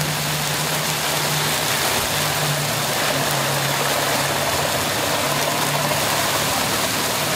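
Heavy rain pouring down steadily, with a boat's motor running low and steady underneath.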